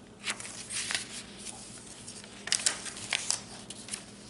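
Paper and card pages of a handmade journal rustling and flapping as they are turned and handled, in several short bursts, the loudest a little past halfway.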